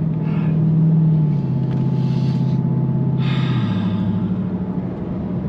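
The 2018 Dodge Challenger SRT Demon's supercharged 6.2-litre Hemi V8 drones steadily inside the cabin while cruising, its pitch dropping in two steps, about a second in and again about three and a half seconds in, as the 8-speed automatic upshifts. The driver gives a couple of heavy, breathy exhales over it.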